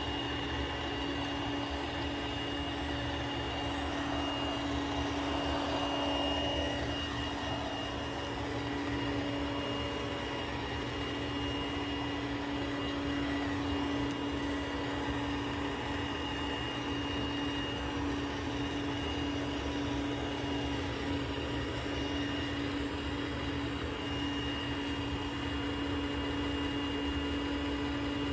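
iRobot Roomba Combo 10 Max robot vacuum running on high suction over carpet: a steady motor hum with a fainter high-pitched whine above it.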